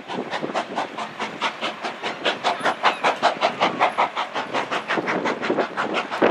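Steam locomotive working, its exhaust beating in rapid, even chuffs of about five a second.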